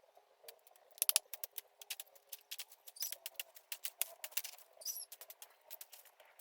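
Dense, irregular crackling and clicking, many sharp ticks in quick succession, with a couple of brief high squeaks.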